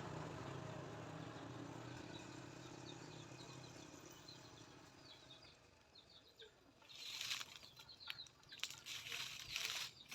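A small engine's low hum fading away, with faint bird chirps in the middle, then irregular rustling and crackling from about seven seconds in.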